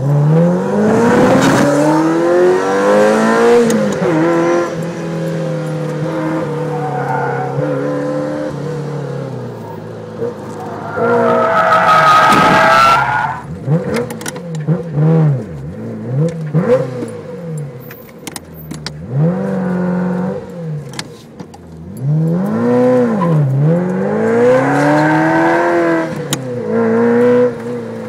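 Ferrari 348's V8 heard from inside the cabin, revving hard up through the gears and rising and falling repeatedly as the driver works the throttle through corners. Tyres squeal loudly about halfway through as the car slides in a drift.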